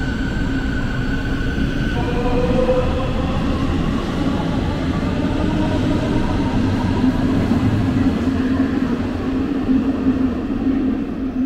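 S-Bahn electric train running with a steady rumble, with a whine from its drive that rises slowly in pitch from about two seconds in.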